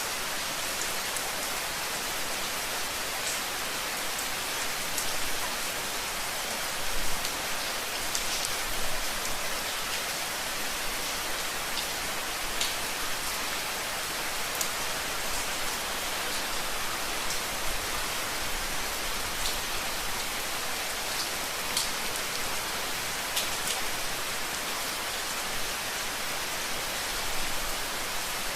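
Steady rain falling on a hard surface, a dense even hiss with individual drops ticking through it. A few soft low thumps come about seven to nine seconds in.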